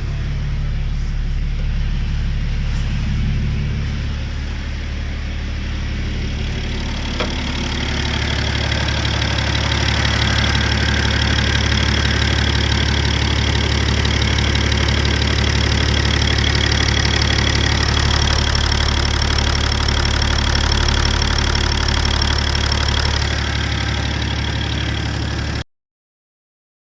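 BMW M57 straight-six diesel engine idling steadily, running on freshly fitted 535d injectors, with a short click about seven seconds in. The sound cuts off suddenly near the end.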